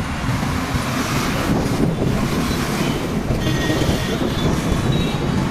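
Wind buffeting the microphone over steady road and engine noise while riding a bike through traffic.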